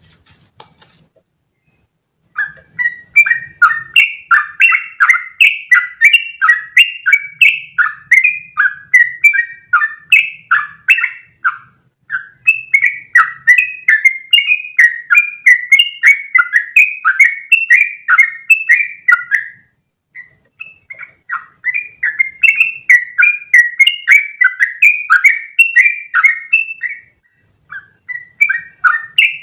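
Yellow-vented bulbul (trucukan) singing a long, fast run of short bubbly chirping notes, about three a second. It starts about two seconds in and pauses briefly twice.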